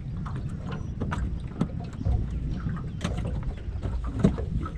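Handling noises in a small boat: scattered clicks and knocks over a steady low rumble, with sharper knocks about two, three and four seconds in.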